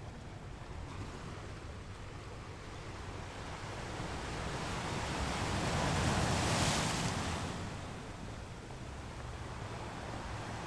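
Ocean surf washing onto a shore: the wash swells to one wave breaking about six seconds in, then falls back to a steady low rush.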